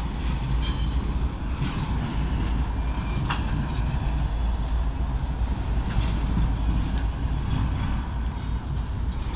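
Double-stack container freight train rolling past: a steady low rumble with a few sharp clicks.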